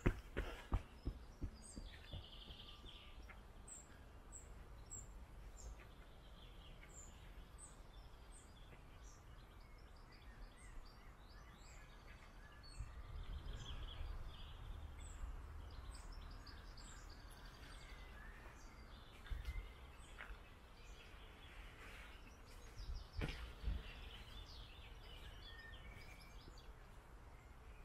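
Small birds singing and calling in the park, one repeating a thin, high chirp about every half second for much of the time, over a low background rumble that swells twice. A few footsteps at the very start.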